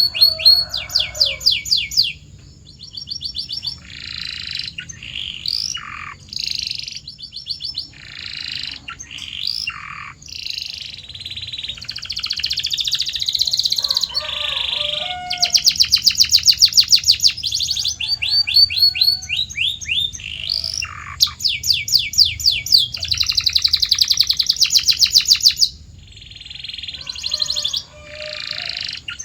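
Domestic canary singing a continuous song: fast rolling trills of rapidly repeated notes alternating with short whistled and sliding notes, the phrase changing every second or two.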